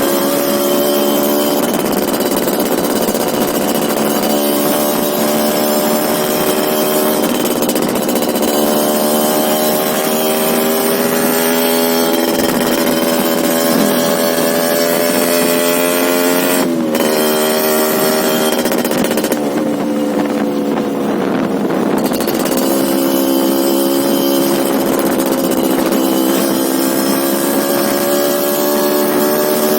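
Two-stroke engine of a Yamaha Alfa motorcycle running steadily through its exhaust fitted with a replacement silencer baffle. Its pitch dips briefly a little past halfway, then sags and recovers about two-thirds of the way through.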